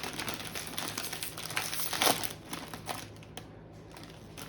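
A chip bag of Munchos being handled and torn open, its packaging crinkling and crackling, with a loud crackle about two seconds in and the crinkling dying down over the last second or so.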